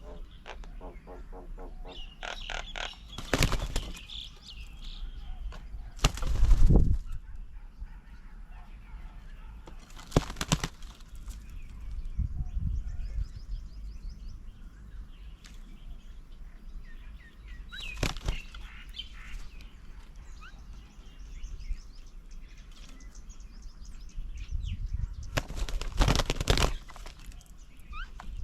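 Birds at a feeding table: wingbeats as birds land and take off, in several short bursts, the loudest about six seconds in, with a quick run of strokes near the start. Scattered chirps and calls from the birds run between them.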